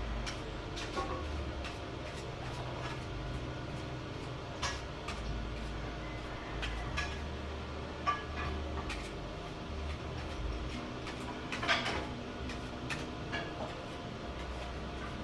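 Scattered light clicks and knocks of hard objects being handled, with a louder clatter about twelve seconds in, over a low rumble that comes and goes.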